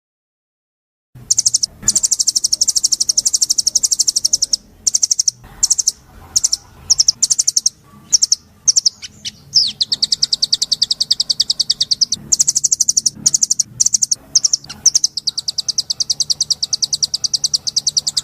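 A songbird singing long, very rapid trills of high notes, broken by short pauses. The song starts about a second in, after silence.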